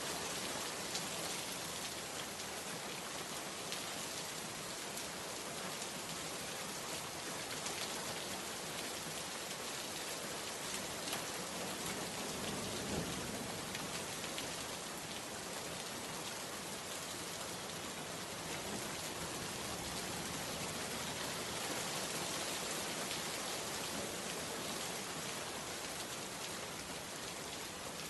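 Steady rain falling, an even hiss with scattered drops striking a surface.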